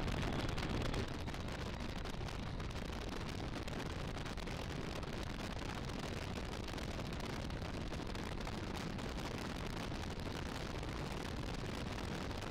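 Onboard sound of a 1986 AC Cobra MK IV's V8 running at speed on track, mixed with heavy wind buffeting the open cockpit into a steady, noisy rumble. The level drops slightly about a second in.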